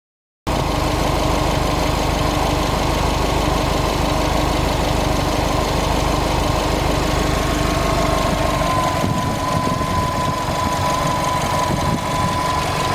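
2009 Subaru Impreza WRX STI's turbocharged 2.5-litre flat-four running, with a rapid light ticking or knock that follows engine speed, of a cause the owner doesn't know. The low part of the sound shifts about nine seconds in.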